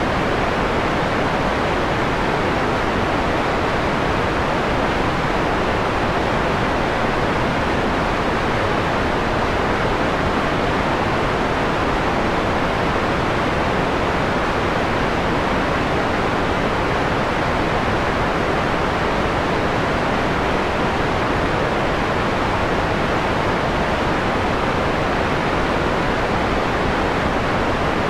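Steady electronically generated noise with its treble cut back, a mellow hiss close to pink noise. It holds an even level throughout.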